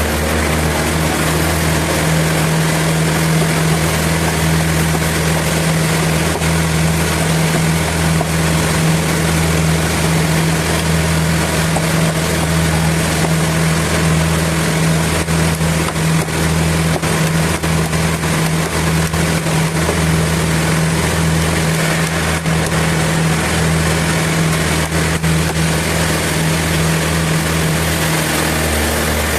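Sawmill machinery running steadily: a loud, constant machine hum with a pitched drone that sets in about a second in and stops shortly before the end.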